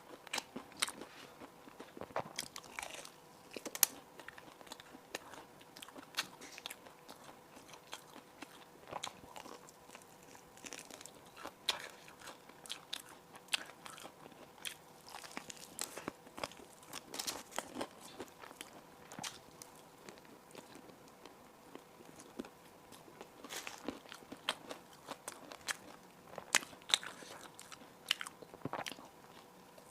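Close-miked eating: crisp bread and buns being bitten and chewed, with irregular crunches and crackles throughout.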